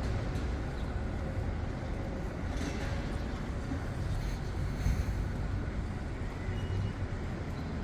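Steady low rumble of city street traffic, with a few faint knocks.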